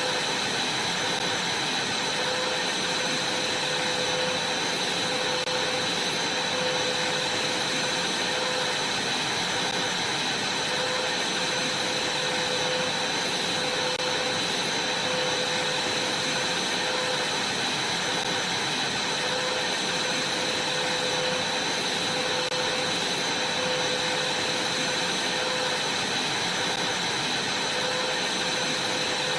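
Vacuum cleaner running steadily while vacuuming a trampoline: a constant rushing noise with a steady whine, unchanging in level.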